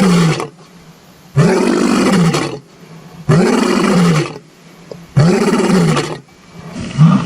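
Lion roaring: a string of loud roars about a second long, coming every couple of seconds, each one rising and then falling in pitch.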